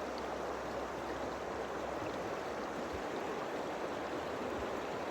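Creek water flowing: a steady, even wash of running water.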